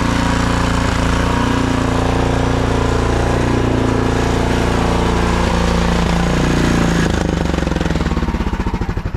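Snowblower engine running steadily under load, then shut off about seven seconds in, its firing slowing into separate pulses as it coasts to a stop.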